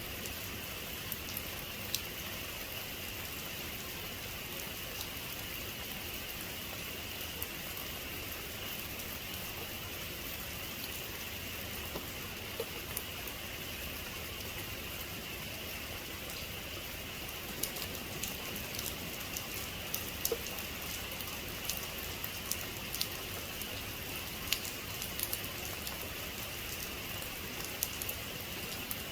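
Steady heavy rain falling, with individual drops ticking sharply on a surface now and then, more often in the second half.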